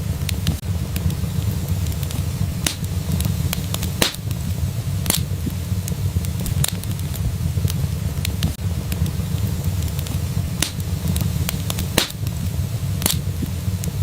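Wood fire in a fireplace crackling, with irregular sharp pops and snaps, a few a second, over a steady low rumble.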